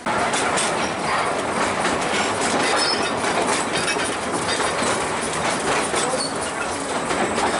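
Narrow-gauge train running along the track, its wheels clattering over rail joints with occasional faint high squeals.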